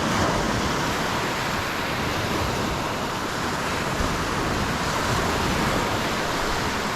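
Lake Superior waves breaking on the shore, a steady wash of surf.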